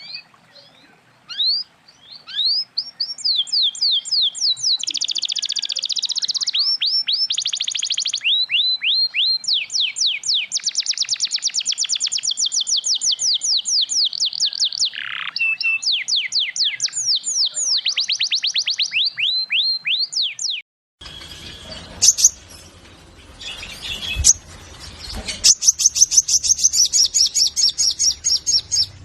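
Sogon (crimson sunbird) singing: long rapid volleys of high, thin descending notes, several per second, mixed with chattering. About two-thirds of the way through, the sound cuts to a noisier recording with a low hum, where scattered calls give way to another fast run of high notes near the end.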